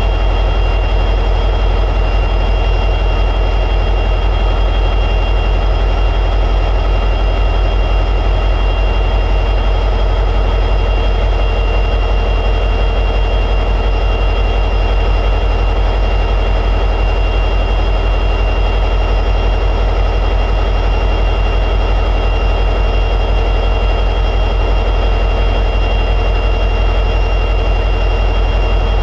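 EMD 710G3B two-stroke diesel locomotive prime mover running steadily in high idle, a dense low rumble with a fine rapid pulse and a steady high whine above it.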